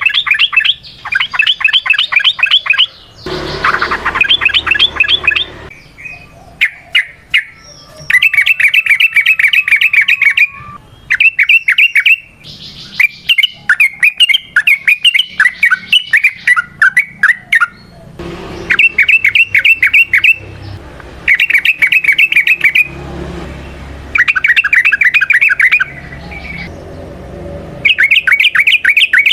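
Yellow-vented bulbul (trucukan) singing a loud, rapid chattering song: bouts of quickly repeated bubbling notes, a second or two to several seconds long, broken by short pauses. A faint low rumble shows in some of the gaps.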